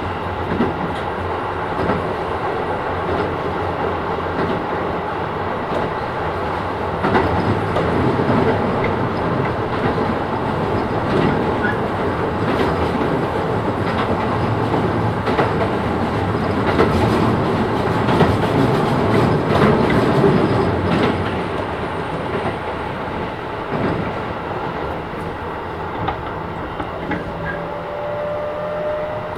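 Keisei 3000 series electric train running, heard from inside the passenger car: steady wheel-and-rail rumble with clickety-clack over rail joints, swelling for a stretch and then easing. A thin rising whine comes in near the end.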